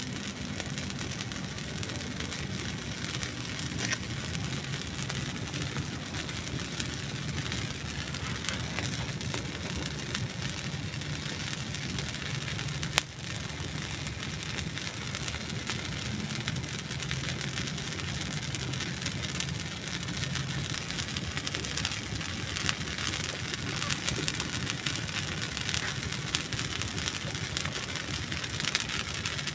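Dry wood burning in a campfire: a steady hiss with many small crackles and pops, and one sharp, louder pop about 13 seconds in.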